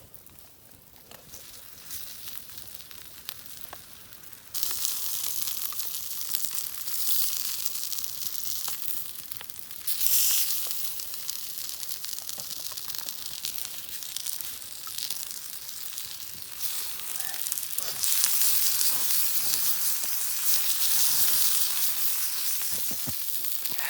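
Steaks frying in oil in a pan over an open fire: a steady sizzle that gets suddenly louder about four seconds in and swells again twice after.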